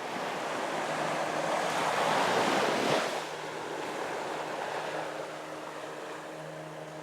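Surf washing onto a beach: a wave swells to its loudest about two and a half seconds in, then falls back to a softer, steady hiss.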